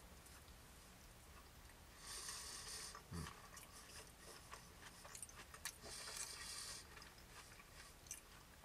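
Faint sounds of a person chewing a mouthful of apple pudding, with scattered small mouth clicks and two short soft hisses, about two and six seconds in.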